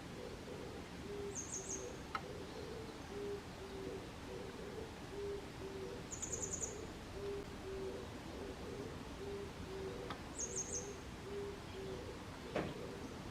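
Grey wagtail singing: three short, high, trilled phrases about four seconds apart. Under them a low hooting call repeats steadily, and a sharp tick comes near the end.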